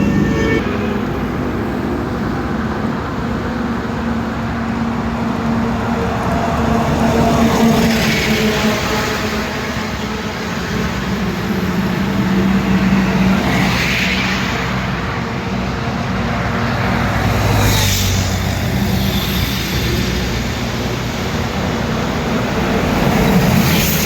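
Highway traffic: a steady engine hum with vehicles rushing past one after another, four distinct passes about every four to six seconds.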